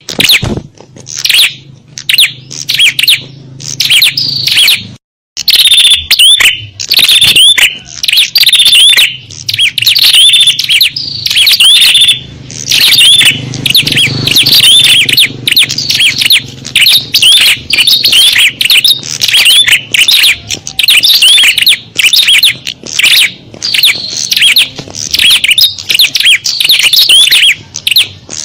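Recording of small birds' lure calls: many quick, high chirps and twitters overlapping in a dense, noisy chorus, with a short break about five seconds in. It is the kind of recording played to lure small songbirds in.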